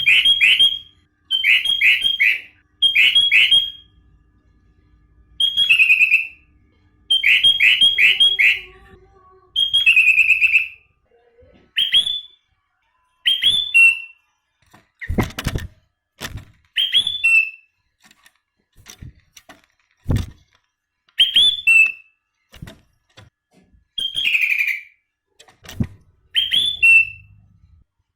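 Sooty-headed bulbul singing loud, short whistled phrases over and over: quick runs of three or four notes alternating with single down-slurred whistles, with gaps between. A few low thumps come in the second half.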